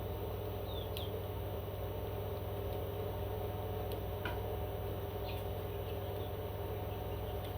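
A steady low hum, with a few faint, short, high chirps and sharp clicks from a small bird, likely a parrot, scattered through it.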